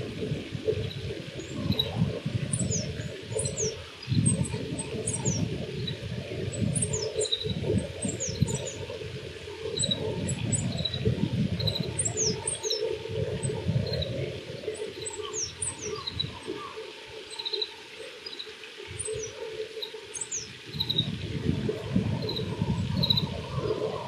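Oriental greenfinch singing: a run of short, high, downward-slurred notes and twitters repeated throughout, over a low, uneven rumble.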